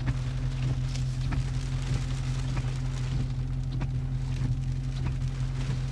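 Steady low engine and road drone heard from inside a car driving in the rain, with scattered faint ticks over it.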